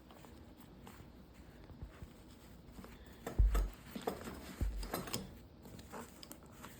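Hands working at a bookbinding bench: faint rubbing and handling, then two dull thumps a little over a second apart, with light clicks and knocks around them as the book and its ties or boards are set in place.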